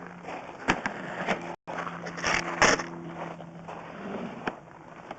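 Sewer inspection camera's push cable being fed through the pipe: scraping and knocking with a few sharp clicks, loudest about two and a half seconds in, over a steady low hum.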